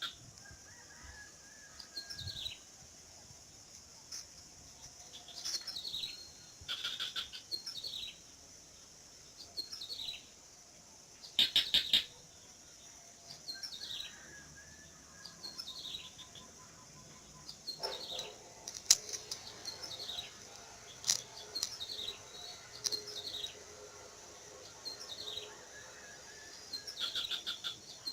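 A bird repeating short, high, falling calls every second or two, with bursts of rapid clicking trills in between.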